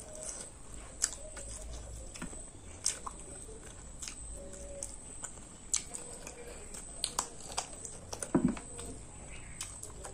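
Close mouth sounds of someone eating: scattered sharp smacks and clicks of chewing, about a dozen, irregularly spaced, with a louder cluster about eight seconds in.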